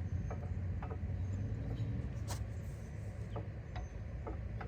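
Light metallic clicks and taps as brake pads are worked into a caliper bracket, a few seconds apart with one sharper click about halfway, over a steady low hum.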